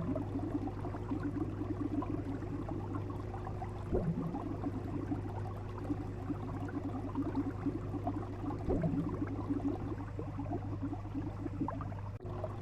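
Water bubbling over a steady low hum, with a louder gurgle about every four to five seconds and a brief break near the end.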